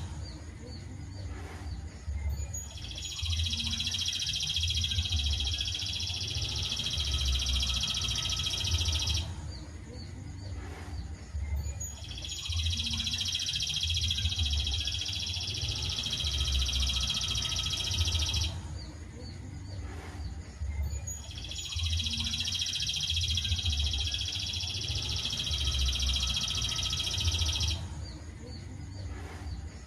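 Songbird masteran recording: a long, dense, high trill held for about six seconds at a time, repeated three times with pauses of about three seconds between, so evenly spaced that it sounds looped.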